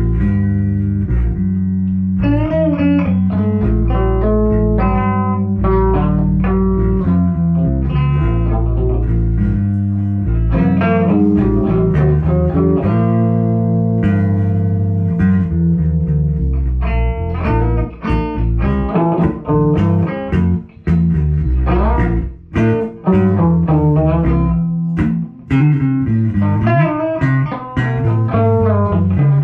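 Guitar and bass guitar playing an instrumental piece, with picked notes over a sustained bass line; in the second half the notes break off briefly several times.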